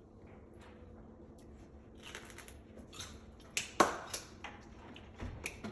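Handling noises: faint rustling with a few short, sharp clicks, a cluster of them about three and a half to four seconds in and one more near the end.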